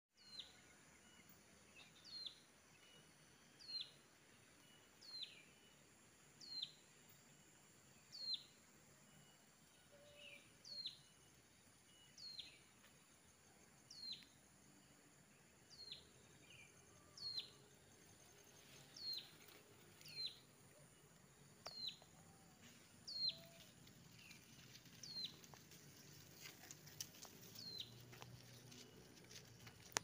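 A small bird calling over and over, one short high note that drops sharply in pitch, about every second and a half. Faint crackles come in near the end.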